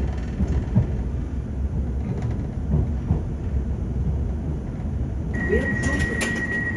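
Steady low rumble inside a Class 701 electric train standing at a platform; about five seconds in, a steady high electronic warning tone starts, with a few clicks, as the doors prepare to close.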